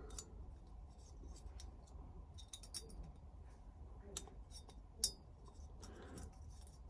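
Faint, scattered small metallic clicks and light scrapes of a 12-thou steel feeler gauge blade being worked into the end gap of a two-stroke piston's compression ring, with the loudest click about five seconds in. The blade is not quite snug in the gap.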